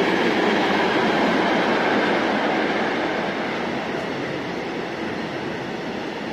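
Freight train of tank wagons passing through the station at speed: a steady rolling rush of wheels on rails that grows gradually quieter in the second half.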